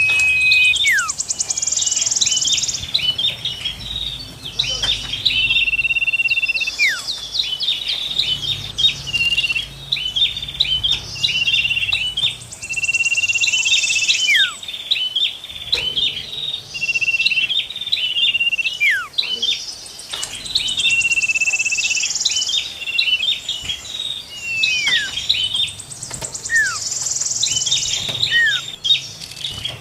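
Several small songbirds singing together: fast high chirping, held whistled notes that end in falling glides, and high buzzy trills that come back every few seconds.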